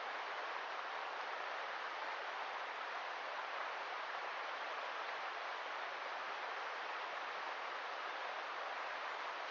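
Steady rush of river water flowing, an even hiss with no change throughout.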